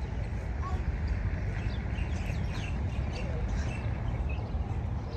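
Small birds chirping, many short high calls, some falling in pitch, scattered through the whole stretch, over a steady low rumble.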